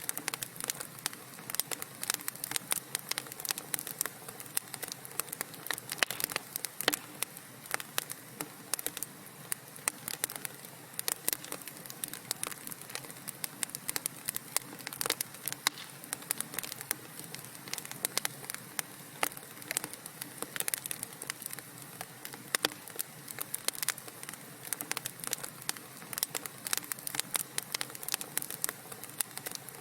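Wood fire burning in a fireplace, crackling and popping continuously: many small sharp pops over a steady soft hiss.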